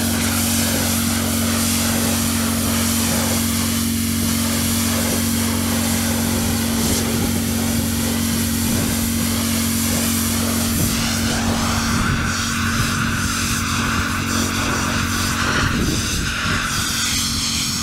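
Pressure washer running: a steady engine drone with the hiss of water spray, the drone changing about eleven seconds in.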